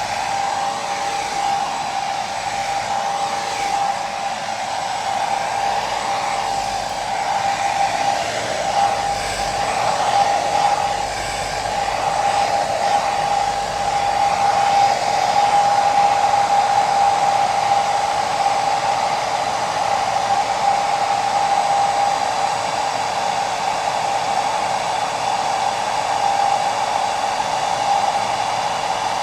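Electric hair dryer running continuously: a steady rush of air with a motor whine holding one pitch, and a faint high whistle above it. It swells slightly in loudness midway and eases back.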